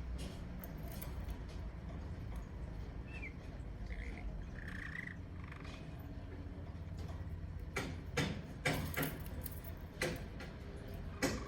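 Pet canary giving a few short, high chirps over a steady low hum, followed near the end by a run of sharp clicks and taps.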